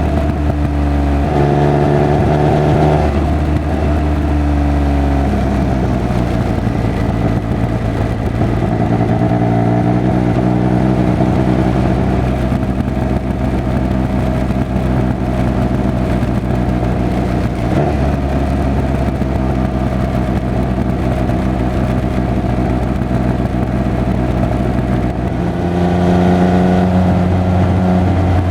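Triumph Speed Triple 1200 RR's inline three-cylinder engine and exhaust on the move. The note changes pitch in steps over the first few seconds, holds fairly steady through the middle, then rises again near the end.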